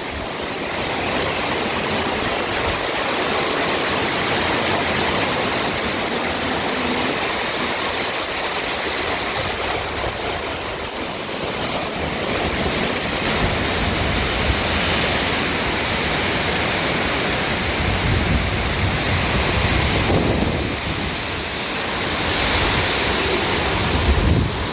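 Storm wind and heavy rain: a steady rush of noise that swells with gusts, heaviest near the end.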